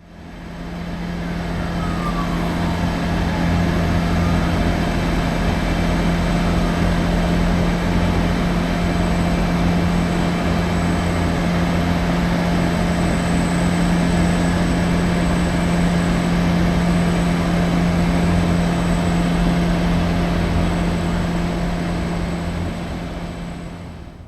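Boeing 747-400F freighter's jet engines at takeoff power: a loud, steady jet roar with a constant low hum beneath it, swelling over the first couple of seconds and dying away near the end.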